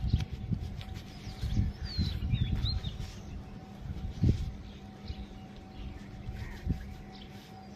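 Small birds chirping, with a cluster of short chirps about two to three seconds in, over low rumbles and thumps that are loudest at the start and about four seconds in.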